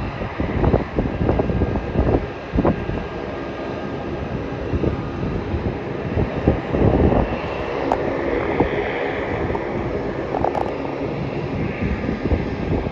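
Jet engines of an Airbus A321 freighter coming in to land, a steady rushing whine that swells about eight seconds in. Wind buffets the microphone with repeated low gusts throughout.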